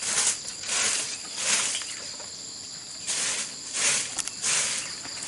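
Rhythmic rasping strokes of a hand tool working bamboo, about one every half to one second with a pause midway. A faint steady insect drone runs underneath.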